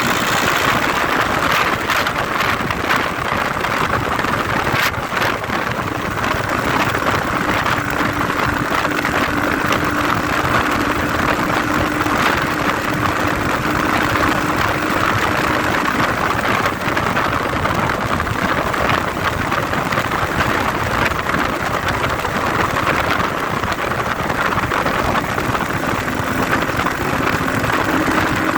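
IZh Jupiter 5 motorcycle with a Chinese 300 cc engine running steadily on the move, giving a dense, even noise at a constant level.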